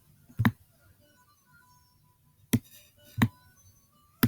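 Four sharp, irregularly spaced computer mouse clicks, with a radio playing music faintly in the background.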